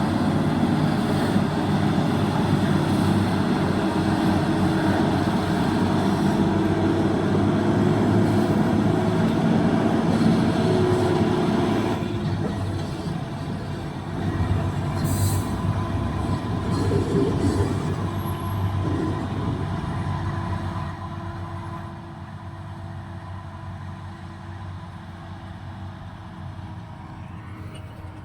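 Heavy-haulage truck's diesel engine and multi-axle trailer running steadily under load, with a low engine drone and rolling noise. It is loudest for the first twelve seconds and then grows gradually quieter as it moves off.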